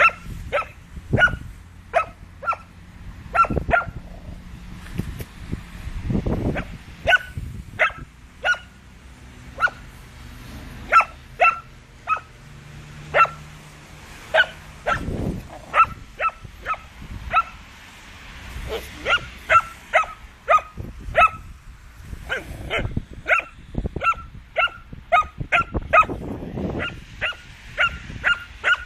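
Irish Setter puppy giving many short, high-pitched barks and yips in irregular runs, some coming in quick succession. A few low rumbles sound between them.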